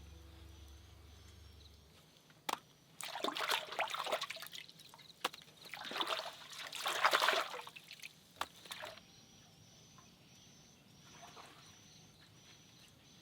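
Water sloshing and trickling in irregular bursts, with scattered sharp drips and clicks.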